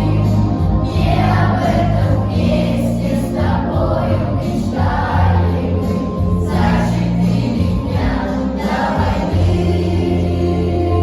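A children's choir singing a song over an instrumental backing track.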